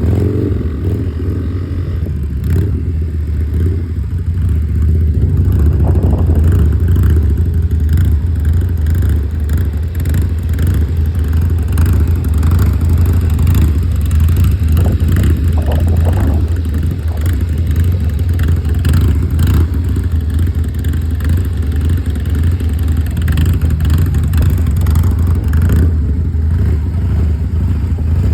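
Harley-Davidson V-twin motorcycle engine running steadily under throttle during circle wheelies, a deep continuous drone with no breaks.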